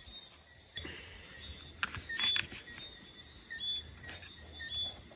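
Outdoor ambience: a steady series of short, high chirps repeating about every half second, with a few sharp clicks about two seconds in.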